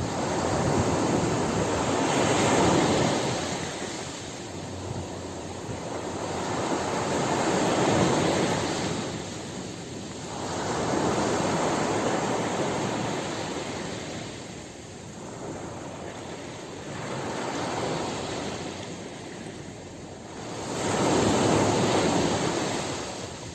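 Ocean surf: waves breaking and washing in, the rushing noise swelling and fading in five slow surges, each lasting a few seconds.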